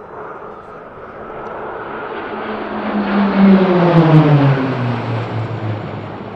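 An aircraft making a pass, growing louder to a peak about three to four seconds in. Its engine note falls in pitch as it goes by and then recedes.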